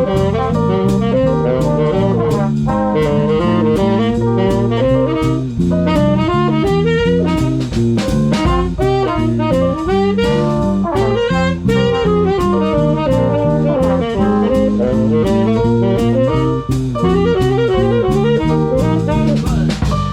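Swing band playing a jazz tune: saxophones and brass over a drum kit keeping a steady beat.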